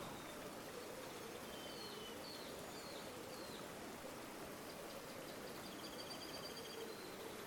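Steady, faint rush of flowing river water. Over it, small birds chirp: a few short high chirps about two to three seconds in, then a rapid high trill from about five to seven seconds in.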